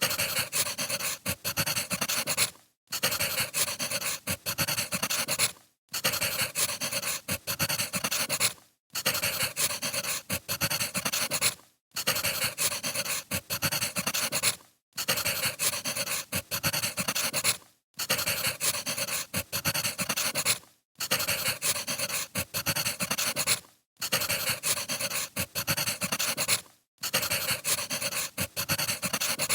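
Wood fire crackling and popping, as a short recording looped over and over, with a brief drop-out about every three seconds.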